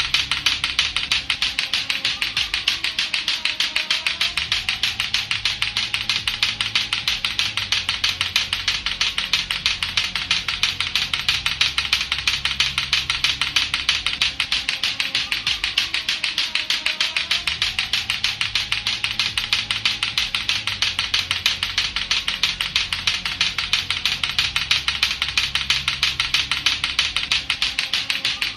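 Latto-latto clacker balls, two hard plastic balls on a string, clacking together in a rapid, steady, unbroken rhythm. Under the clacks runs a low repeating musical backing.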